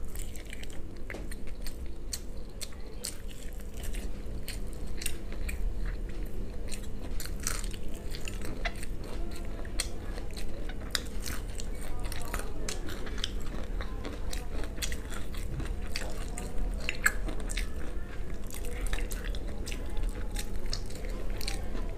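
Close-miked biting and chewing of crispy fried chicken: many sharp crunches and crackles of the breaded crust, scattered throughout.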